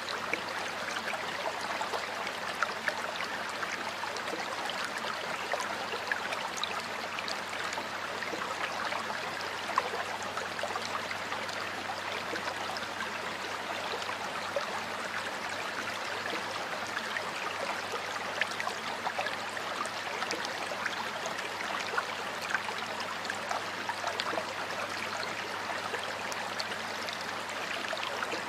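A stream flowing steadily, water running and splashing over stones with many small droplet ticks.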